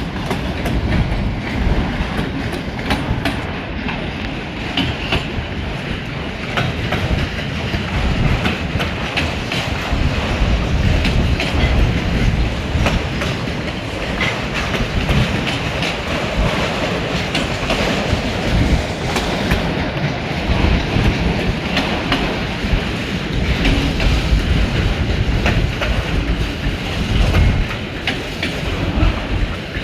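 Long freight train's cars rolling past, steel wheels clicking over the rail joints in a continuous run of clacks over a steady low rumble.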